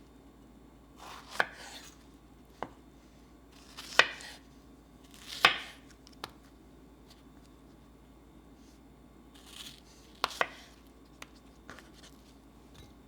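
Kitchen work on a hard countertop: a handful of sharp knocks, each with a short rustling swish, spaced irregularly with a quiet pause in the middle.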